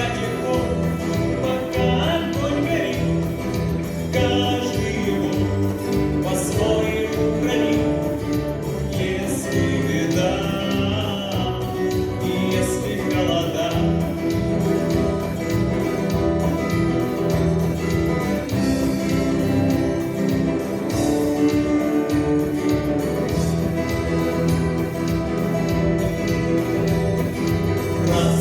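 Music: a song with singing over a steady instrumental accompaniment.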